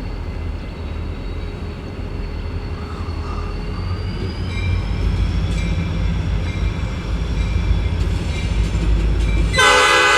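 A train rumbling closer and growing louder, with a thin high whine slowly rising in pitch. Near the end the locomotive's horn starts to blow.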